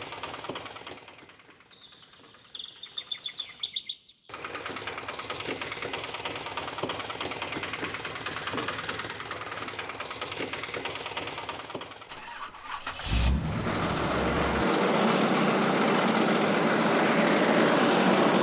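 Vehicle engine sounds in several cut sections. A short run of high beeps comes first, then an engine puttering with rapid, even ticking. About thirteen seconds in there is a thump, and a louder, hissier engine sound runs on after it.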